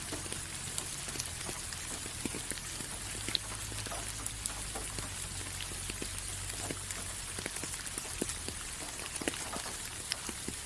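Rain falling: a steady hiss with many separate drops ticking irregularly on a surface.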